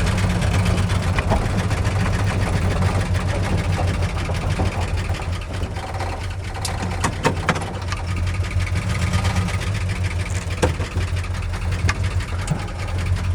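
Ford 390 FE V8 engine running steadily at low revs through headers and exhaust, with a few sharp clicks in the middle and near the end.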